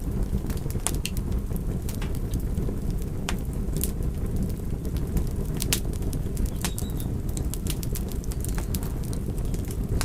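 Fire crackling: a steady low rumble of burning with irregular sharp pops and snaps scattered through it.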